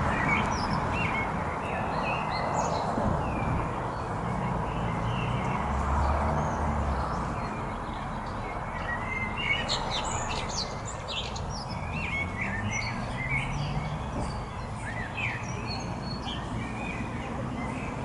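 Small songbirds chirping and twittering in many short, scattered calls, busiest in the middle, over a steady low background rumble.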